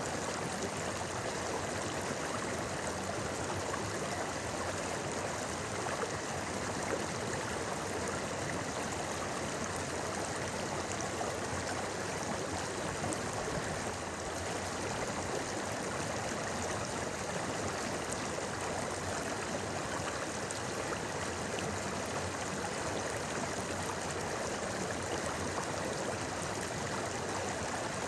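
A shallow river babbling steadily over stones, an even rushing and gurgling of flowing water.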